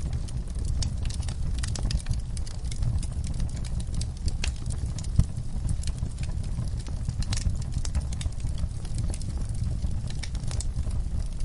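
Wood fire in a backyard fireplace crackling, with frequent sharp irregular pops over a steady low rumble.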